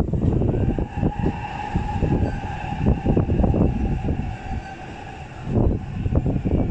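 E657 series limited express train running, with a steady whine, under a heavy, gusty rumble of strong wind on the microphone.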